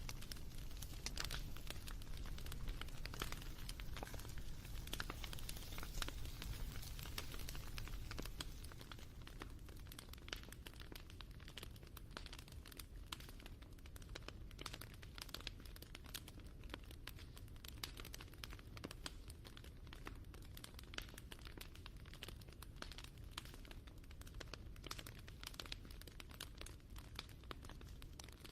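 Wood fire crackling and snapping in a dense, irregular stream of small pops over a low rumble, easing a little after about eight seconds.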